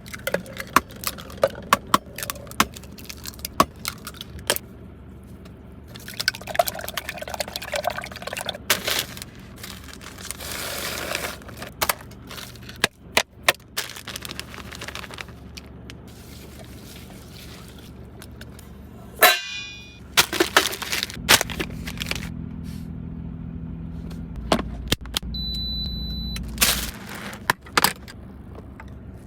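Food being prepared by hand: a long run of sharp clicks and knocks from utensils and containers, with a stretch of hiss about ten seconds in and a steady low hum in the latter part.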